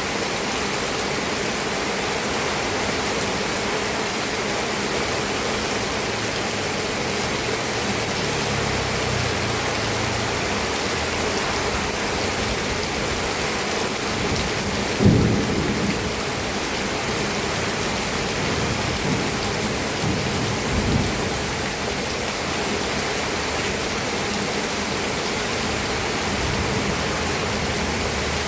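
Steady rain falling, an even hiss throughout. A short, low rumble stands out about halfway through, and a fainter one follows some seconds later.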